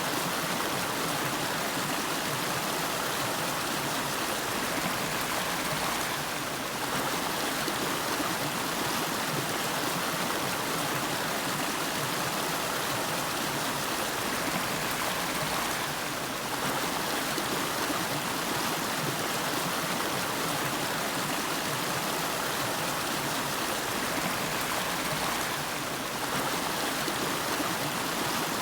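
Nariki River water flowing, a steady, even rushing of a stream.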